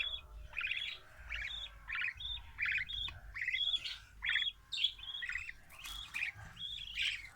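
Budgerigars chirping in a steady run of short, repeated calls, about two a second.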